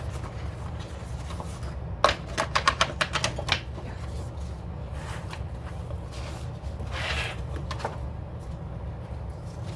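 A quick run of sharp clicks and snaps as a section is pulled out of a disc-bound planner, then a soft paper rustle a few seconds later.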